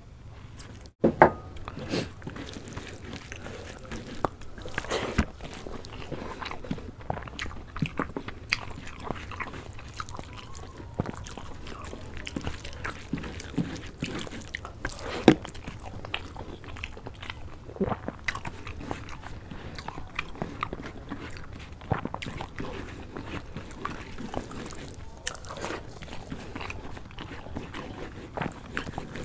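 Close-miked eating by hand: chewing and crunching through mouthfuls of rice and crab curry, with many short sharp crunches, the loudest about a second in and again at about fifteen seconds.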